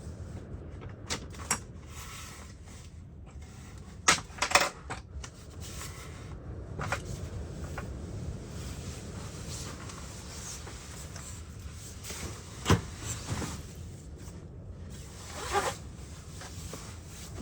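Scattered knocks and clatter, loudest in a quick cluster about four seconds in and a single sharp knock near thirteen seconds, with a short rasp near the end, over a steady low rumble.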